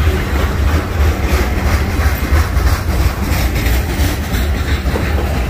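Freight train rolling past: a loud, steady low rumble with the clatter of steel wheels on the rails.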